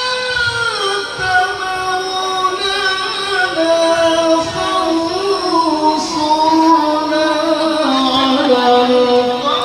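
A male qari chanting Quran recitation in a long melismatic line, holding high drawn-out notes. The melody steps down from one held note to the next, then climbs again near the end.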